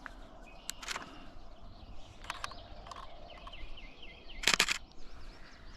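Wild birds singing faintly in wetland woods, with short high notes and a quick run of repeated notes, broken by a few sharp clicks, the loudest a quick cluster of them about three-quarters of the way through.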